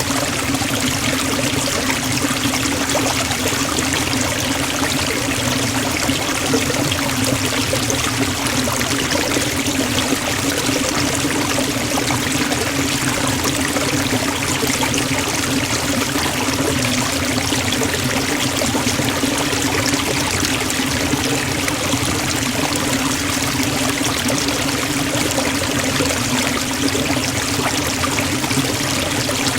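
Forest waterfall: falling water rushing and splashing in a steady, unbroken roar of white noise with a constant low note underneath.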